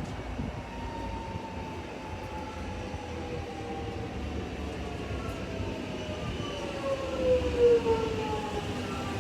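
Electric suburban train's traction motors whining in several tones that fall slowly in pitch as it slows, over a low rumble. The whine is loudest near the end.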